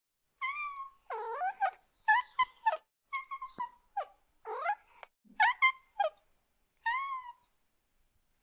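Domestic cat meowing about eight times in quick succession; the short, high meows often bend up or down in pitch.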